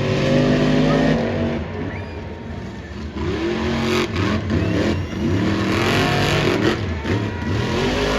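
Monster truck engines, supercharged alcohol-burning V8s, revving hard during a race, the pitch climbing and dropping several times as the drivers work the throttle.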